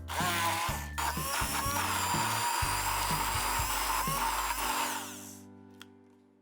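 Electric blender grinding food at speed, a steady motor whine over a rough grinding noise, winding up at the start and fading out after about five seconds. Background music plays throughout.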